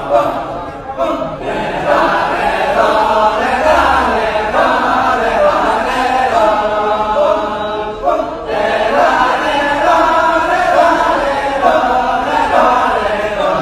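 Kecak chorus: a group of men chanting together unaccompanied, with many voices overlapping in layered, pitched lines. There is a brief lull a little past halfway.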